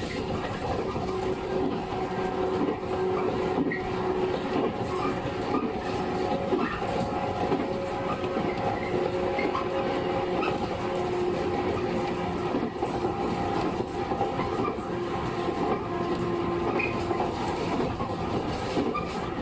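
Inside a JR 115 series electric multiple unit running at speed: a steady motor and gear hum over rolling wheel noise, with occasional knocks as the wheels cross rail joints.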